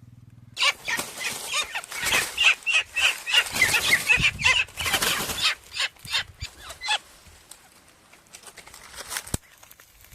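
Live quail calling in a rapid run of short, high chirps with fluttering wing beats, dying away after about seven seconds.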